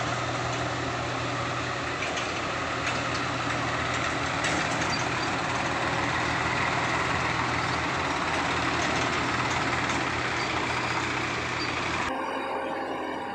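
Heavy construction machinery engine running steadily with a low hum under dense mechanical noise. The sound cuts off abruptly near the end, giving way to a quieter, different sound.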